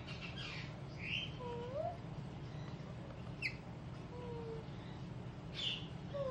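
Baby Indian ringneck parakeet making scattered soft squeaks and short chirps, with a couple of rising whistled notes, over a steady low hum.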